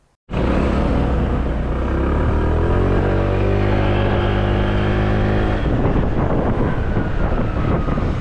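Motorbike engine pulling away: its pitch rises for a second or two and then holds steady. About five and a half seconds in, a steady rushing noise drowns it out.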